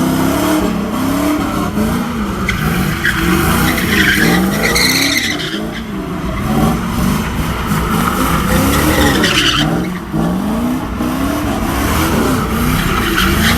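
A car doing a burnout, its tyres squealing on the pavement while the engine revs rise and fall again and again.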